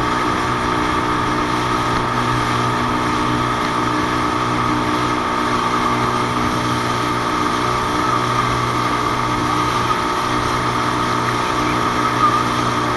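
Traxxas Spartan RC boat's brushless motor running at a steady speed: an even, unchanging whine with a low hum beneath it.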